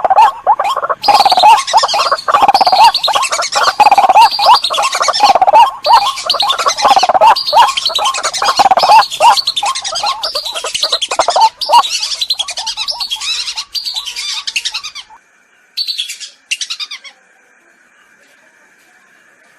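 Recorded bird-lure calls played back: loud, rapidly repeated harsh calls of a waterbird, the white-breasted waterhen or the lesser whistling duck. The calls fade about 12 seconds in and stop near 15 seconds; a short burst of calls follows about a second later.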